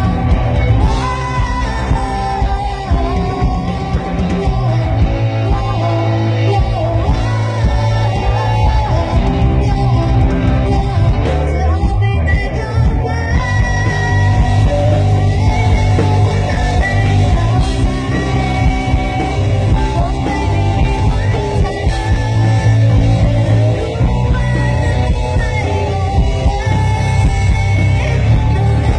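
Rock band playing live with a lead vocal: electric guitar and a heavy bass line under the singing, loud and steady.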